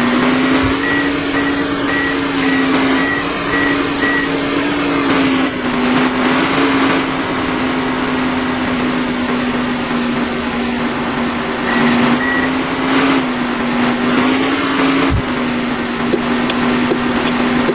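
A vehicle's motor running steadily, its pitch drifting slightly up and down. A reversing alarm beeps about twice a second for the first four seconds and briefly again about twelve seconds in.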